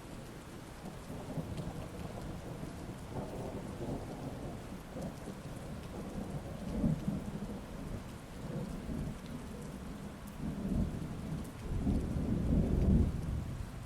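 Thunderstorm: steady heavy rain with long rolling rumbles of thunder, the loudest about twelve seconds in, fading near the end.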